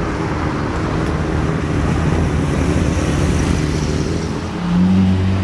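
Motorcycle engines running at a steady idle amid street traffic noise. A little over four and a half seconds in, a nearby engine's steady idle grows louder.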